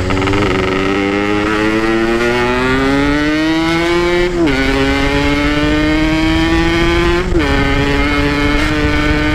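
Motorcycle engine under acceleration on a ride: its pitch climbs for about four seconds, drops at an upshift, holds, and drops again at a second shift. The engine has a freshly fitted piston and a carburettor setting that is still running very rich.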